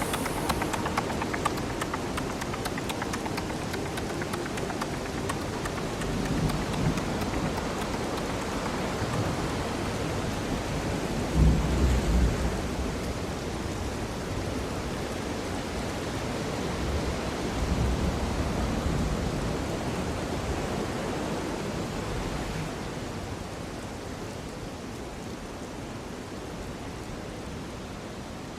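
Steady rain-like rushing noise with a few low rumbles, the loudest about twelve seconds in, fading gradually over the last few seconds.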